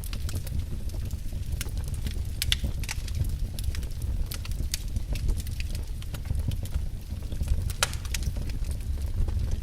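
Wood fire burning in a fireplace: logs crackling and popping in irregular sharp snaps over a steady low rumble of flame.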